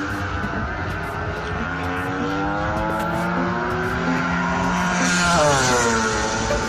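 MotoGP racing motorcycle's four-cylinder four-stroke engine at high revs, its pitch climbing as it accelerates, then passing close about five seconds in with the pitch dropping sharply as it goes by.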